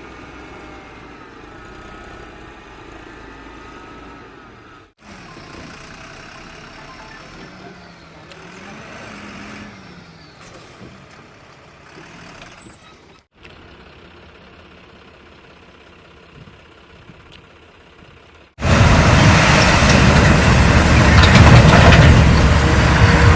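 Diesel engines of heavy machinery running, with the pitch rising and falling as they rev. The sound breaks off abruptly twice and becomes much louder and denser about eighteen seconds in.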